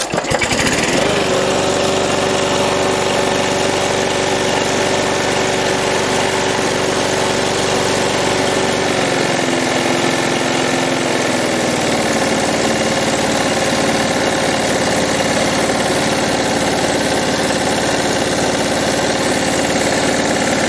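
Petrol lawn mower engine starting off the pull-cord and running steadily after repair. About ten seconds in, its speed eases slightly lower and then holds even.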